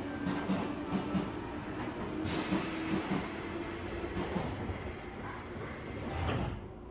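Pneumatic sliding doors of a JR West 201 series electric commuter train closing: a loud air hiss starts about two seconds in, and the doors thud shut near the end, after which the outside noise drops away.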